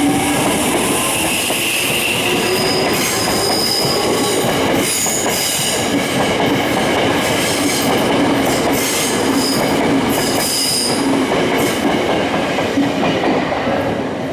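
Electric commuter train running past at close range, with steady rolling noise and high wheel squeal that comes and goes. It eases off slightly near the end.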